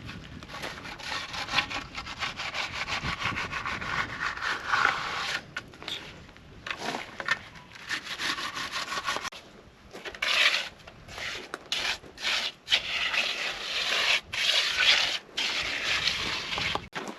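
A hand tool scraping and rubbing across concrete in long repeated strokes, broken by short pauses.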